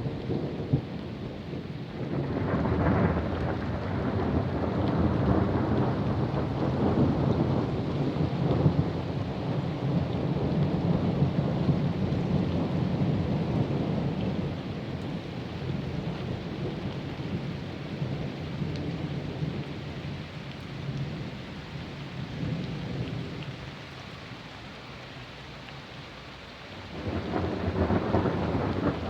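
Long rolling thunder over steady rain. The rumble builds about two seconds in, fades to a lull near the end, then a fresh peal starts to roll in.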